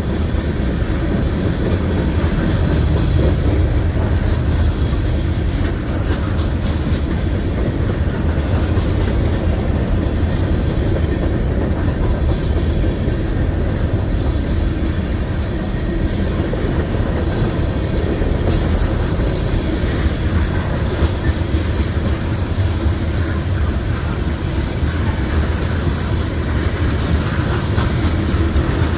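Freight train rolling past at close range: a loud, steady rumble of railroad cars on the rails that holds without a break.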